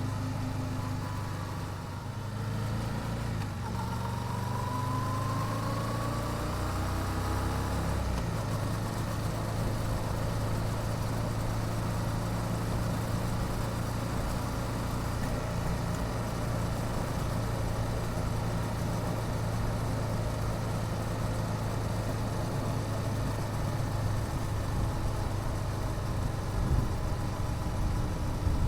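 Yamaha YZF-R7's parallel-twin engine with stock exhaust, running at a steady pitch, with a rising whine about four to seven seconds in.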